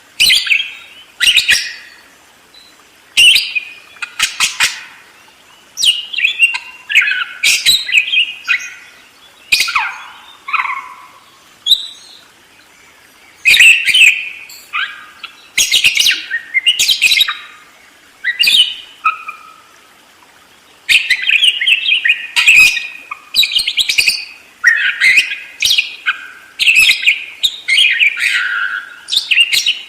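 Budgerigar chattering and warbling: quick bursts of high chirps and whistled notes separated by short pauses, turning into an almost unbroken run of chatter in the last third.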